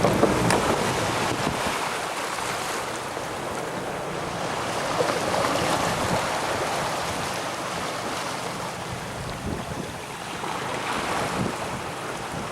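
Wind buffeting the microphone and water washing against a small boat's hull, a steady rushing noise that slowly eases off.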